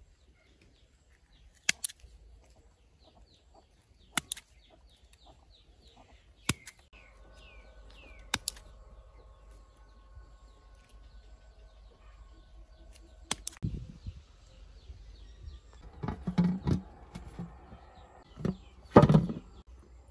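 Birds chirping in short falling calls, with a steady tone for several seconds in the middle. Sharp clicks come every couple of seconds, and near the end louder knocks and rustling from handling.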